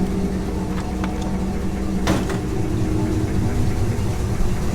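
Chevrolet 350 small-block V8, already warmed up, idling steadily, heard at the open engine bay. A brief click about two seconds in.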